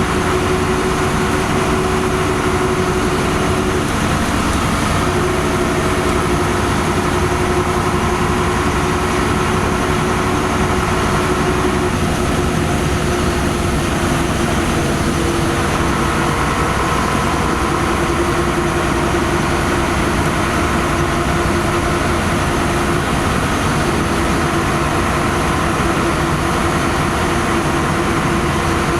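LiAZ-5256.46 city bus on the move, heard from inside: a steady drone of diesel engine and road noise with a constant whine. The whine briefly drops out about four seconds in.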